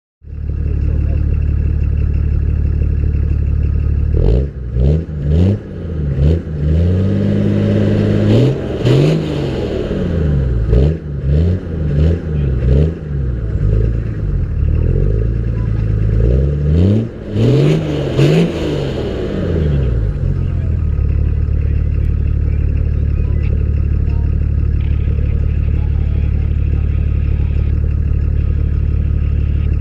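BMW 325 tds E36's turbodiesel straight-six, through straight pipes and a rear sport exhaust, idling and then revved in repeated quick blips for about sixteen seconds before dropping back to a steady idle.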